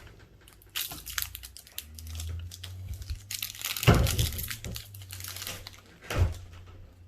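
Foil booster-pack wrapper crinkling and tearing as a trading-card pack is opened and its cards handled, in irregular crackles. Two louder dull knocks come about four and six seconds in.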